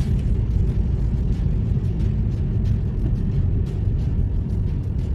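Strong typhoon wind buffeting the microphone: a loud, steady low rumble with faint scattered ticks above it.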